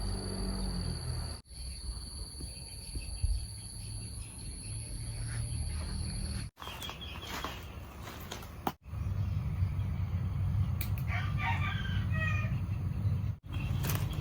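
A rooster crowing once, about two-thirds of the way in, over a steady low rumble. In the first half, insects keep up a steady high-pitched buzz.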